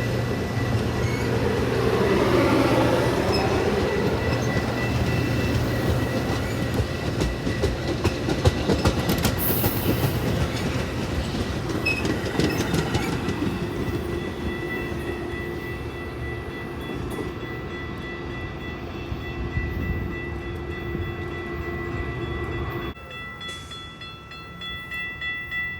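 A train passing close by, its wheels clicking over the rail joints, fading gradually as it goes. About 23 seconds in the sound drops suddenly to a quieter level.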